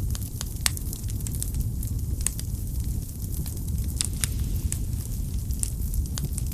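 Firewood burning in a fireplace: a steady low rumble of flames with irregular sharp crackles and pops, several of them loud.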